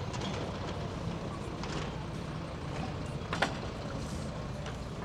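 Steady city street ambience with low traffic rumble. A single sharp click or knock stands out a little after halfway through.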